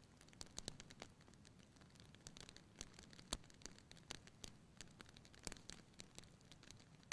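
Campfire crackling faintly: burning wood gives off irregular small snaps and pops, several a second, over a low hiss, with the sharpest pop a little past the middle.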